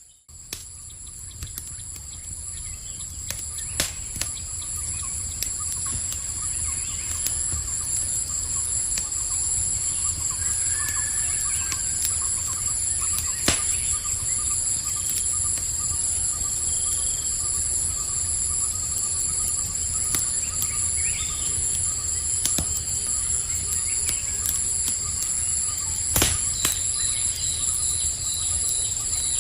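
Campfire crackling with a few sharp pops, over a steady high-pitched chorus of night insects and a low rumble, with faint chirps now and then. The sound fades in over the first few seconds.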